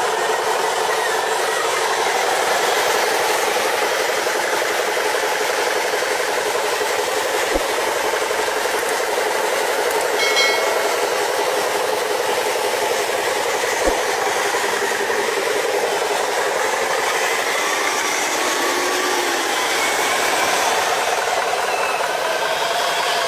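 Small radio-controlled toy trucks driving: a steady whir of small electric motors and gears with plastic rattle, and a brief high beep about ten seconds in.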